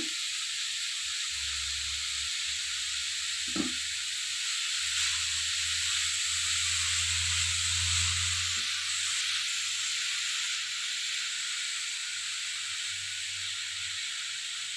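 Grated carrots sizzling steadily in a non-stick pan as they cook down, with a spatula knocking against the pan a few times.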